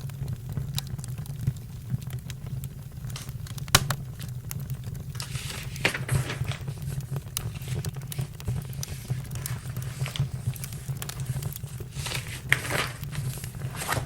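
Campfire crackling, with many scattered sharp pops over a low steady hum, and rustling stretches about five seconds in and again near the end.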